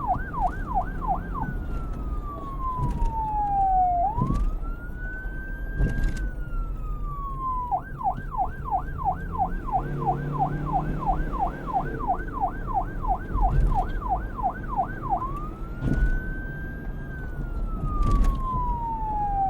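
Police siren switching between a fast yelp, about four warbles a second, and a slow wail that sweeps down and back up, over a low rumble.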